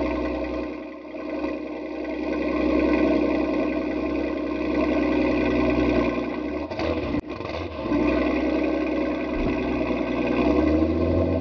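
A sports car engine running with a steady note. It breaks off briefly about two-thirds of the way through, with a click, and the pitch climbs as it revs near the end.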